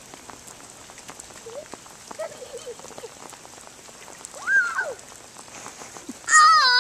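Rain falling steadily, a constant patter of drops on the ground. A child's high squeal with a wavering pitch comes about four and a half seconds in, and a louder, higher squeal near the end.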